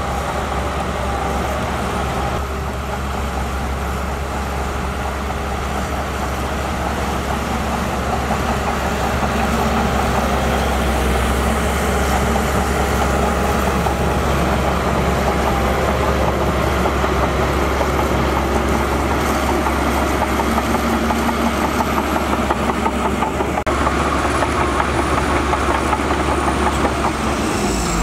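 Heavy construction machinery's diesel engine running steadily with a low rumble, a little louder from about ten seconds in.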